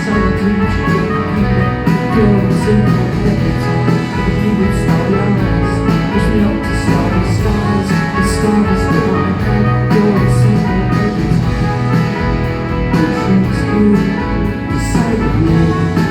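Live band playing an instrumental passage of a pop song, led by guitars with drums and bass, in a loud concert recording.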